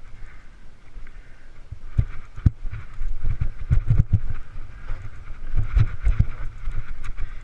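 Mountain bike ridden over rough trail: irregular low thuds and rattles as it bounces over bumps, heaviest in the middle of the stretch, with wind on the microphone.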